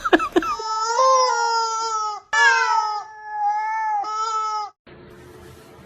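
A cat yowling: three long, wavering, drawn-out calls one after another, stopping about five seconds in.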